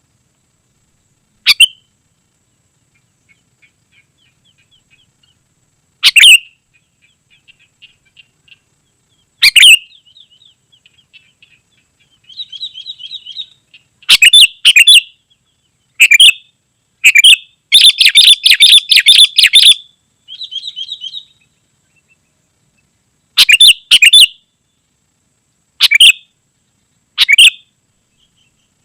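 Sooty-headed bulbul calling loudly in short, sharp bursts at irregular intervals. Softer rapid twittering runs between the bursts, and about two-thirds of the way through there is a dense run of fast chattering.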